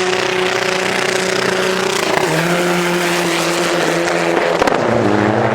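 A car engine running loudly at fairly steady revs. Its pitch drops slightly about two seconds in and shifts again, after a brief click, near the end.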